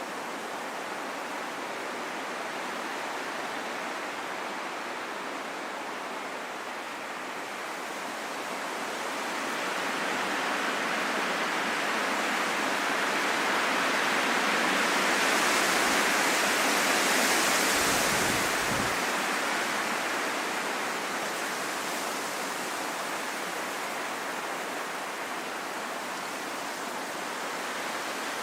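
Steady rain falling in a forest, an even hiss that swells louder for several seconds around the middle before settling back.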